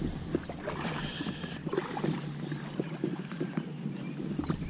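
Small fishing boat being pushed off the bank into the river: scattered knocks and scrapes of the hull and of gear moving inside it.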